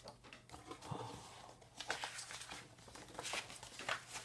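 Faint rustling and crinkling of paper book pages being handled, with a few light clicks that grow more frequent near the end.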